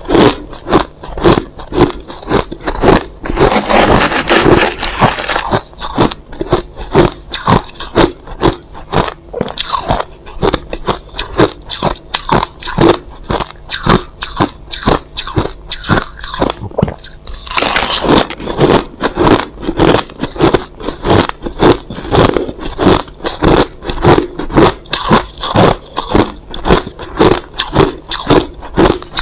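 A person biting and chewing crushed ice close to the microphone: a quick run of sharp crunches, several a second. Denser grinding crunches come a few seconds in and again from a little past halfway.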